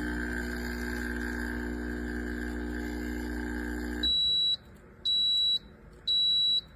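A steady held tone of many notes that cuts off suddenly about four seconds in, followed by three short, high electronic beeps about a second apart, the kind an appliance's control panel gives as a signal.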